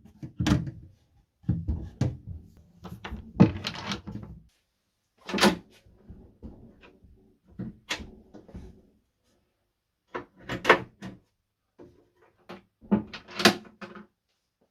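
Wooden cabinet being handled: a run of irregular knocks and clunks of wood on wood, in bunches with short pauses between them.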